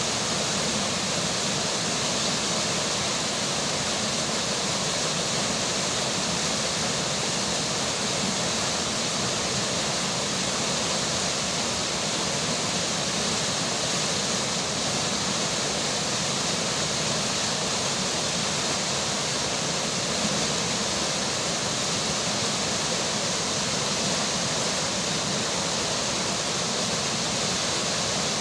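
River water flowing with rainfall: a steady, even rush of water.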